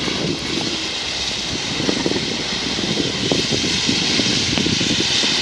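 Freight train's tail-end covered hopper car rolling away on the rails: a steady rolling noise of steel wheels on track with scattered light knocks.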